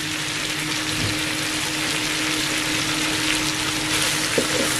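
Diced chicken breast, onion and bell peppers sizzling in a pan while being stirred with a large metal spoon: a steady frying hiss with a low steady hum underneath.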